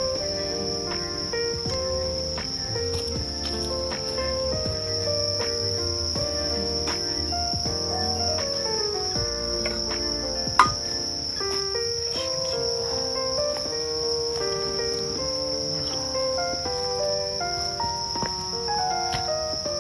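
Insects trilling steadily in one high unbroken tone, over gentle background music of short stepped melodic notes. A single sharp click sounds about halfway through.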